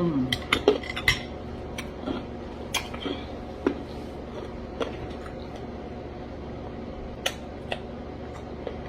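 A spoon clinking and scraping against a cup of fruit and ice in liquid: a quick run of clinks at first, then single clinks every second or so.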